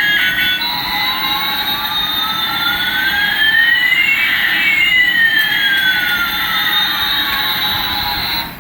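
A steady jet-like rushing hiss with two sweeping tones, one rising and one falling, that cross about halfway through and cut off suddenly near the end.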